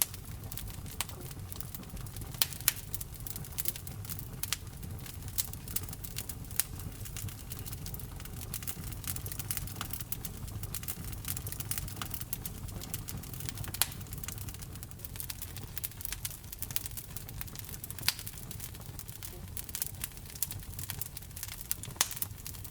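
Wood fire burning in a fireplace: a steady low rumble of the flames with frequent irregular crackles and occasional sharper pops.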